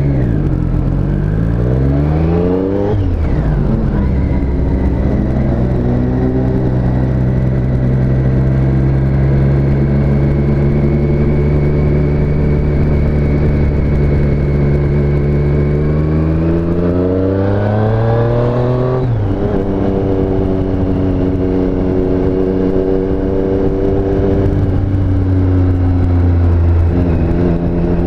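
2017 Triumph Street Triple S three-cylinder engine under way. Revs climb and drop sharply at a gear change about three seconds in, hold steady at a cruise, then climb again and drop at a second upshift about two-thirds of the way through, before settling back to a steady cruise.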